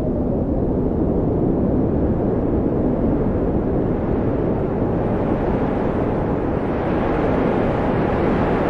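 Wind blowing steadily, a low rushing noise that grows brighter and fuller as a gust builds over the last few seconds.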